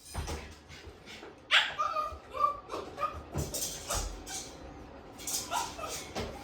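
Shiba Inu whimpering and yelping in short high cries, the first and loudest about a second and a half in, amid short scuffling noises.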